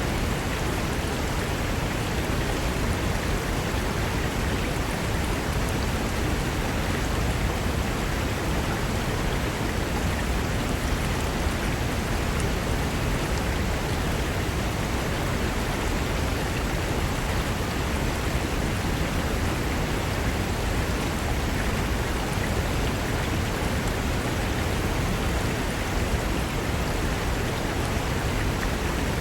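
Mountain river rushing over rocks: a steady, dense roar of fast water with no change or break.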